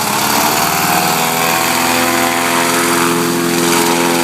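Small engine of a homemade mini airboat running with its air propeller, being broken in. It picks up a little in pitch in the first half second, then holds a steady speed.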